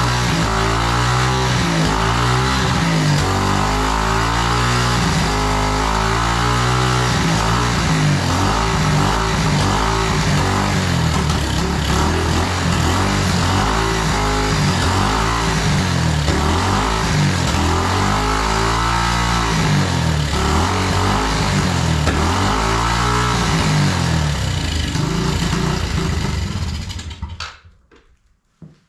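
Yamaha TTR90's small air-cooled four-stroke single-cylinder engine running and being revved up and down repeatedly, then shut off near the end. The engine is burning oil heavily, a worn top end in the owner's judgement.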